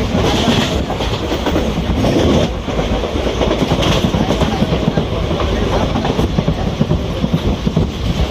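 A moving train running along the track, a steady rumble with dense, irregular rattling from the wheels and carriage.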